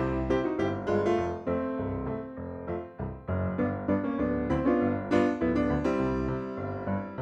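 Piano music: a melody of struck notes over low bass notes, each note starting sharply and fading.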